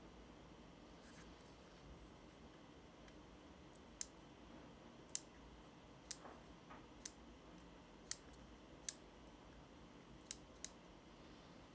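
About eight sharp, short clicks at uneven intervals, from small items being handled while unboxing, over quiet room tone.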